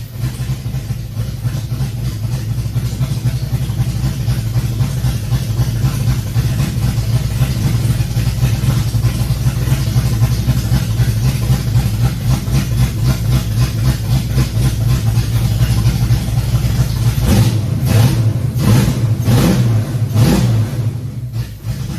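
Fox-body Ford Mustang V8 with a big cam, which the owner takes for an E303, idling with an uneven, loping chop. It is revved a few times near the end.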